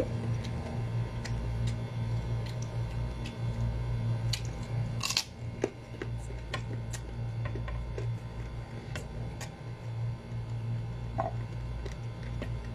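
Close-up chewing of crunchy unripe green mango: scattered crisp crunches and mouth clicks, the loudest about five seconds in, over a steady low hum.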